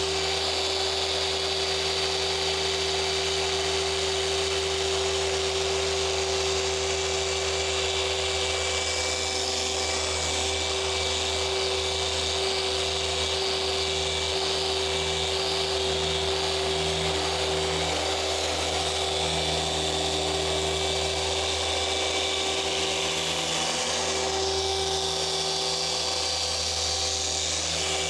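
Electric orbital car polisher running steadily on the paint during machine polishing, with a steady motor whine.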